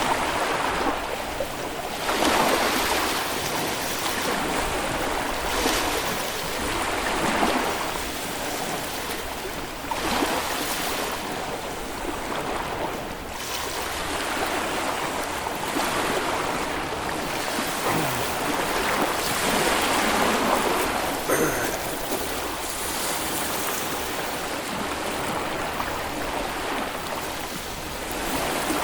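Small Baltic Sea waves breaking and washing up on a sandy beach, a steady rush of surf that swells every few seconds.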